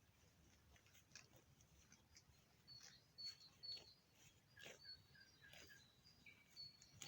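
Faint woodland birdsong: runs of short, high chirps with a few lower notes, among scattered soft clicks.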